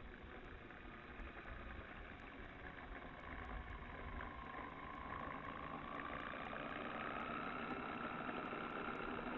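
A small electric RC plane's motor and propeller whine, rising slowly in pitch and growing louder from about four seconds in, with background noise.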